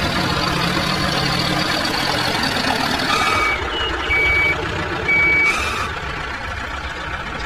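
Vehicle reversing alarm giving three short, steady beeps about a second apart, over the continuous rumble of a running engine or motor.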